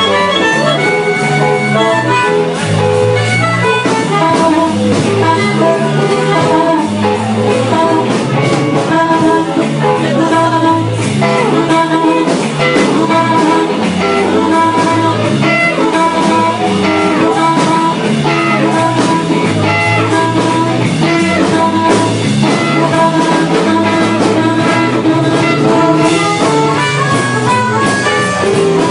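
Blues band playing an instrumental passage: guitar lines over a walking bass line and drum kit, with no vocals.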